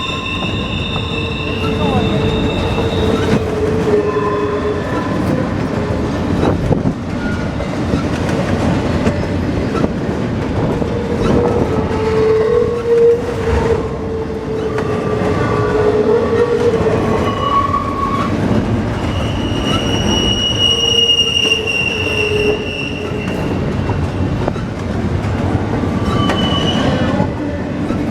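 Empty intermodal train cars rolling past: a steady rumble and clatter of steel wheels on rail, with high-pitched wheel squeals that come and go several times.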